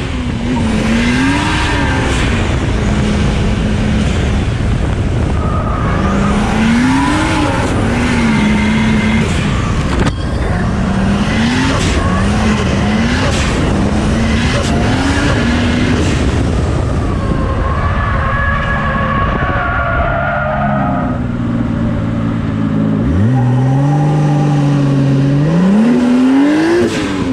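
Drift car's engine revving hard, its note rising and falling over and over and holding steady between climbs, with tires squealing. Near the end the engine pulls up through the revs in a long rising note.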